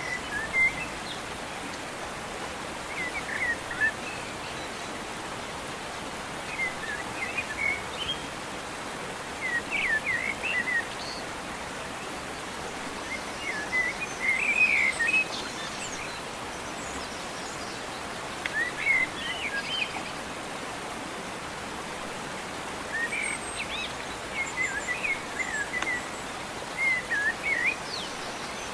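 A songbird calling in short bursts of quick chirps, repeated every few seconds, over a steady, even background hiss.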